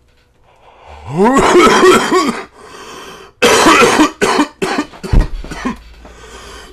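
A man coughing hard after a big bong hit of smoke: a long, strained, throaty cough about a second in, a rasping breath drawn in, then a run of short sharp coughs.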